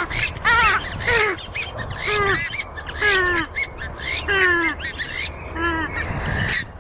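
Purple swamphen calling: a series of harsh, nasal calls, each falling in pitch, about one a second.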